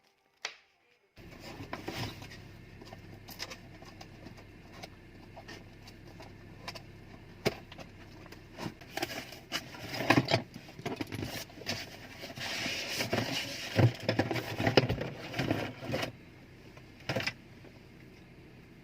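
Handling noises from unboxing a car vacuum cleaner and its accessories: a string of irregular clicks, knocks, rattles and scrapes, busiest in the middle stretch.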